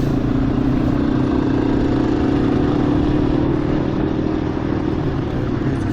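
Motorcycle engine running steadily under way, a constant even drone.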